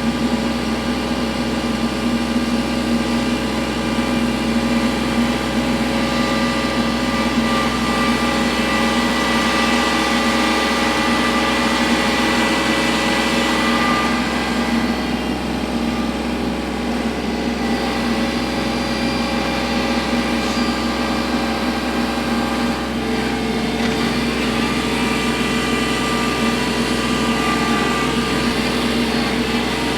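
Kubota L3301 tractor's three-cylinder diesel engine running at a steady speed, its note shifting slightly about halfway through and again later.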